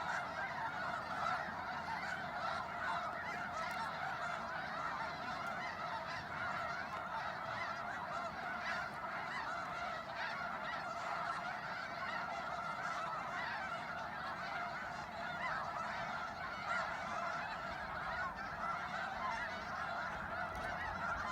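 A large wintering flock of waterfowl calling all at once, many calls overlapping into a continuous, even din with no pauses.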